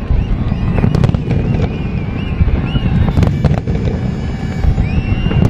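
Large aerial fireworks display: a continuous dense rumble of shell bursts, with sharp cracks about a second in and again around three seconds in, and high wavering whistles above.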